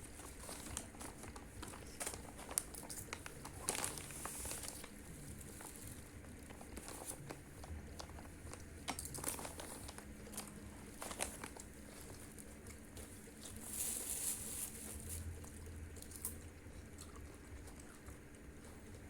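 Takeaway food wrapping crinkling, with scattered small clicks and taps while the fried rice and noodles are unwrapped and eaten; two brief louder rustles, about four seconds in and again near fourteen seconds.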